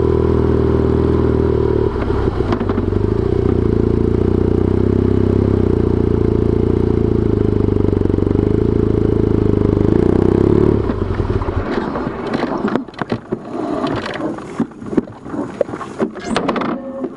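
BMW R1200GS boxer-twin motorcycle engine running at a steady pitch; about eleven seconds in it cuts off, giving way to an uneven, gusty rushing noise.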